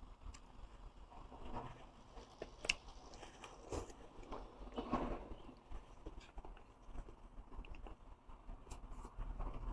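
Close-miked chewing and wet mouth sounds of a person eating fatty meat, with irregular soft smacks and clicks.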